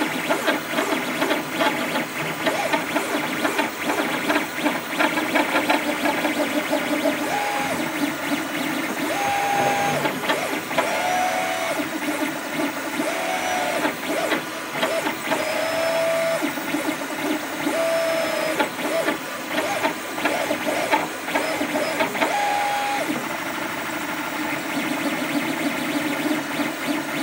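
Leapfrog Creatr HS 3D printer running with a continuous rattling buzz, which its owner calls strange noises. In the middle stretch its stepper motors give a series of short steady whines at several different pitches as the axes move.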